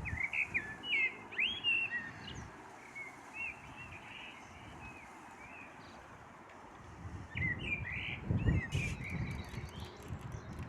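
Common blackbird singing: warbling, fluting phrases in two spells, one at the start and another about seven seconds in. A low rumble swells under the second spell.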